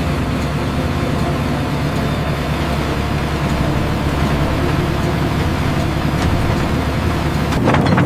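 Tractor engine running steadily, with a few knocks near the end.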